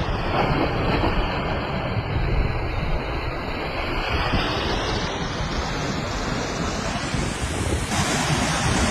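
Storm-driven sea waves breaking in a steady wash of surf, with wind on the microphone adding a low rumble.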